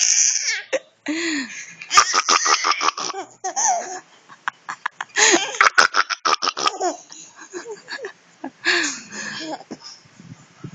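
A baby laughing in several fits of rapid, staccato giggles, about two seconds in, again around the middle and once more near the end.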